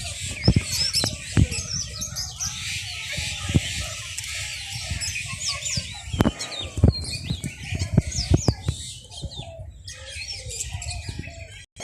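Many small birds chirping and chattering together in an aviary, a dense overlapping mass of short high calls, with scattered sharp low thumps.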